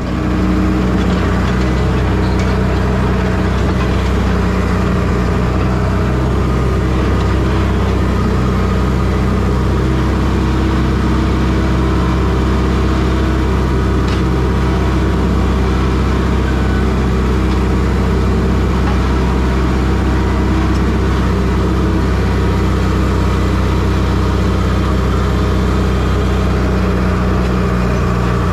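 Engine running steadily and close, a loud, even drone that starts abruptly and holds without rising or falling.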